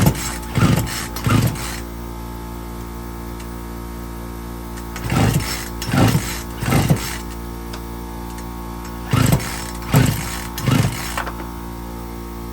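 Poulan Pro 42 cc two-stroke chainsaw being pull-started: three sets of quick pulls on the recoil starter cord, about three pulls to a set, and the engine never fires. The saw will not start. A steady hum runs underneath.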